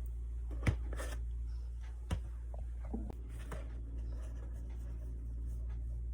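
Paintbrush strokes putting paint on a small wooden block, a faint scratchy brushing, with two light knocks about a second and two seconds in, over a steady low hum.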